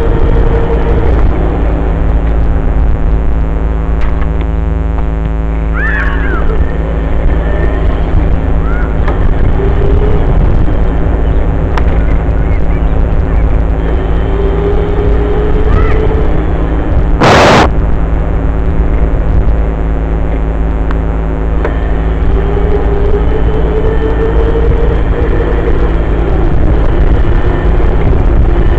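Dirt bike engine running steadily under a heavy low rumble, with its pitch wandering a little. One sharp bang a little past halfway.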